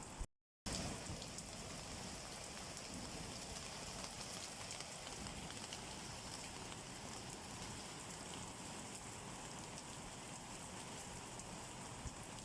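Steady rain falling, with fine drop patter throughout. The sound cuts out completely for a split second just after the start.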